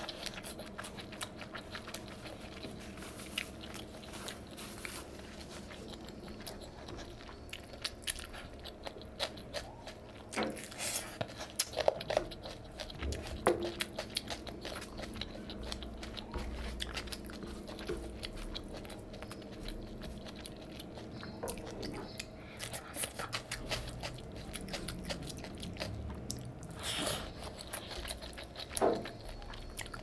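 Close-miked eating sounds: a person chewing and biting on mouthfuls of rice and fish curry, with many small wet clicks and a few louder sharp bites, while fingers work the rice and fish on the tray.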